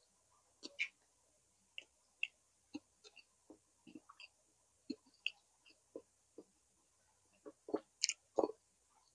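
Close-miked eating sounds: a person chewing a meal with irregular soft wet smacks and mouth clicks, a louder cluster of smacks near the end.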